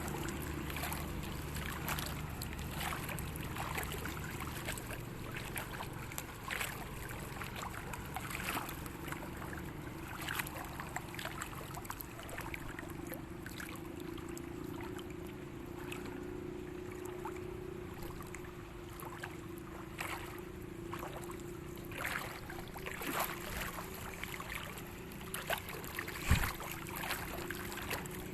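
A steady low motor hum with many scattered clicks and taps, and one sharper knock late on.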